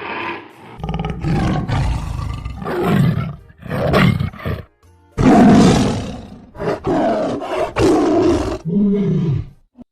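Tiger sound effect: a series of loud roars and growls, one after another.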